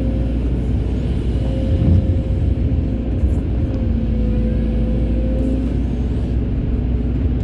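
Excavator's diesel engine running steadily under load with a steady whine over the low rumble, and a louder knock about two seconds in.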